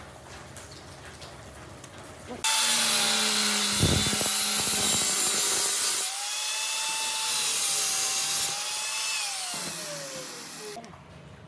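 Handheld power tool cutting metal: it starts abruptly and runs loud with a steady whine and a harsh hiss. Near the end its pitch falls as it spins down and stops.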